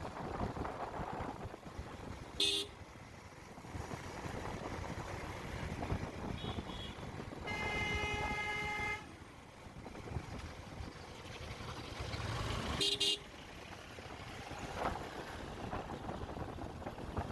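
Vehicle horn honking over steady wind and road noise on a moving motorbike: a short beep a couple of seconds in, a longer horn blast of about a second and a half in the middle, and another short beep about two-thirds of the way through.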